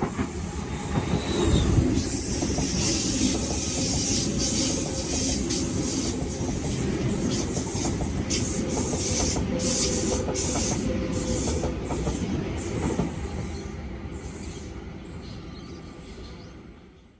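A Sydney Trains train running along the tracks, with steady wheel-and-rail noise, a high wheel squeal about two to four seconds in, and a series of clacks over the rail joints in the middle. The sound fades away toward the end as the train moves off.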